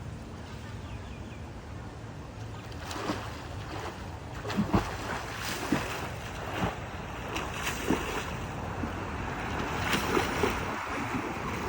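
Swimmer splashing through pool water, with irregular stroke splashes about once a second starting about three seconds in.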